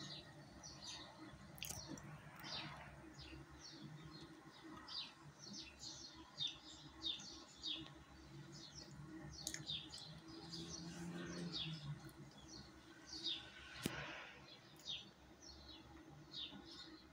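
Small birds chirping outside, a steady run of short, quick, falling chirps, over a faint low hum. A single sharp click about fourteen seconds in.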